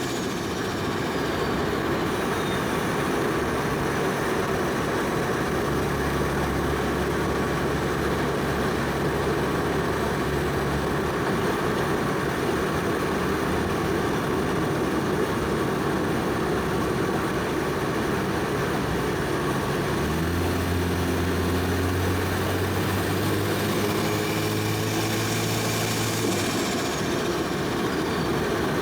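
Toyota Soarer's single-turbo 1JZ inline-six running on the road under steady cruising, with road noise throughout. About twenty seconds in, the engine note climbs for several seconds as it pulls, and a high whistle falls away near the end.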